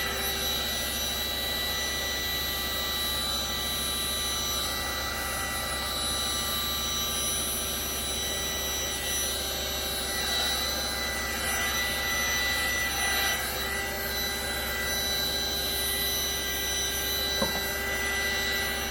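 Small heat-shrink heat gun running steadily, its fan giving a constant whine over a rushing hiss as it blows over wet epoxy resin. One sharp click near the end.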